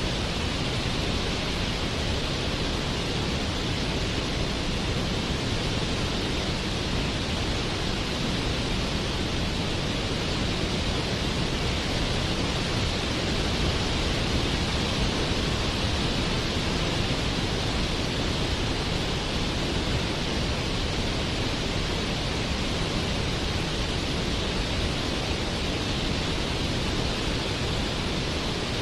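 Waterfall: falling water rushing steadily and evenly, with no changes.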